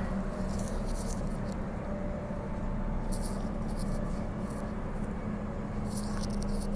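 Cabin noise of a Bombardier B-series electric multiple unit running along the line: a steady rumble of wheels on rail under a constant electric hum, with scattered light clicks and rattles.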